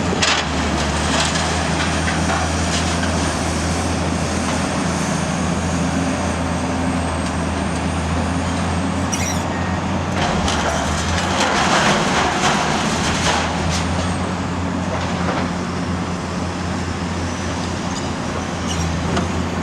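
Cat 345C UHD demolition excavator's diesel engine running steadily, with a high thin whine over most of it, and metal clanking and crunching as its scrap shear works steel, loudest for a couple of seconds past the middle.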